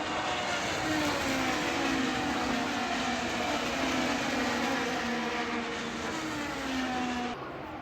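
Race car engines at high revs, several engine notes sliding down in pitch as the cars go past, with a sudden drop in level near the end.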